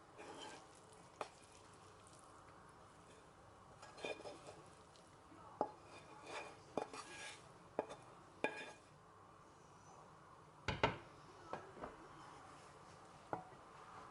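Kitchen utensils knocking, clinking and scraping against pots and dishes during cooking: about ten separate sharp knocks at uneven intervals, with short stretches of scraping or stirring.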